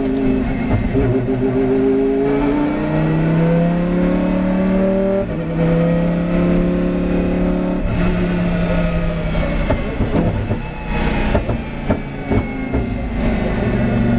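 Lamborghini Huracán race car's 5.2-litre V10 pulling hard, its pitch climbing until it drops at an upshift about five seconds in. It holds high revs, goes ragged with several sharp pops around ten to twelve seconds in, then settles to a lower steady note near the end.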